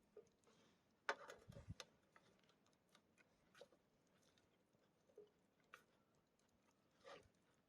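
Faint, scattered small clicks and crackles, a short cluster about a second in and another near the end.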